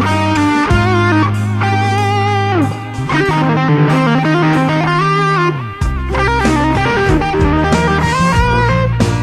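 Ibanez Roadstar II electric guitar played with an overdriven tone: a lead melody of held notes with bends and slides, over sustained low bass notes.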